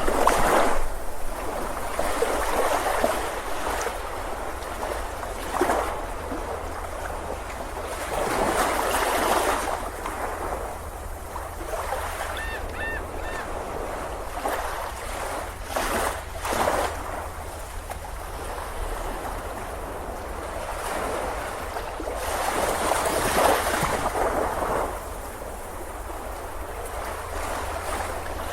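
Ocean waves breaking on a beach, the surf rising and falling in surges every several seconds. A few faint short high calls sound about halfway through.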